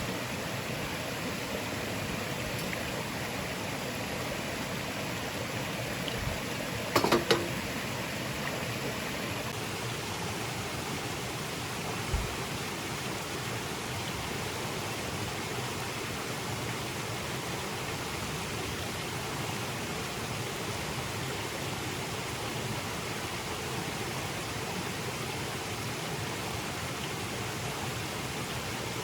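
Stream water rushing steadily. A quick cluster of three sharp clicks about seven seconds in and a single dull knock a few seconds later.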